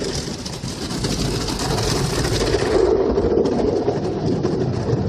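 Automatic car wash heard from inside the car: a steady hiss of water spraying the car that gives way, about three seconds in, to a lower steady rushing noise.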